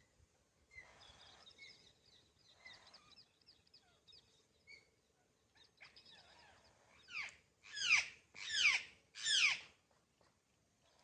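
Birds calling: faint high twittering, then four loud calls about a second apart near the end, each sweeping sharply down in pitch.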